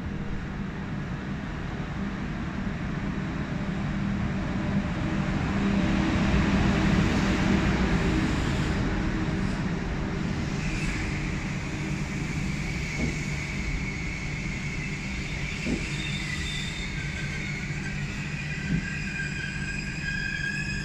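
Passenger train of Talgo coaches pulling into a station: a low rumble that swells as the locomotive passes, then from about halfway a high, steady squeal as the train slows, with a few clicks of wheels over rail joints.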